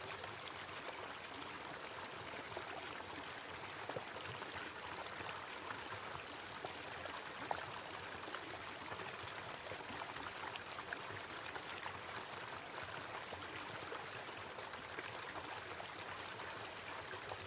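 Small waterfall running steadily, a continuous splashing rush with scattered little drips and splashes.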